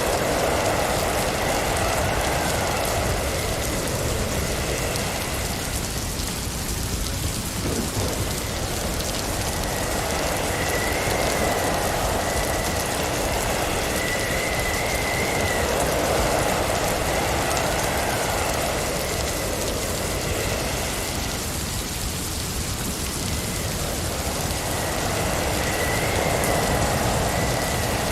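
Steady snowstorm wind and driven snow, as a dense hiss that swells and eases every several seconds, with a faint high whistle that wavers on and off.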